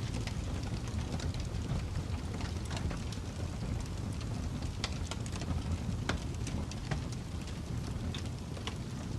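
Fireplace fire burning: a steady low rumble with irregular crackles and pops.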